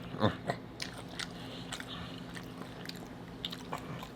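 Close-up chewing and biting into tacos, with irregular crunches, the loudest about a quarter second in, over a steady low hum.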